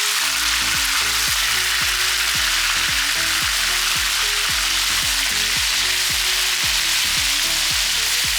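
Marinated chicken pieces sizzling steadily in hot oil in a pan, frying off their moisture. Background music with a steady low beat plays under it.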